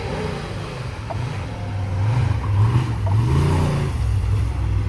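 Prerunner race truck's engine running hard, its pitch rising and falling several times as it is revved up and let off.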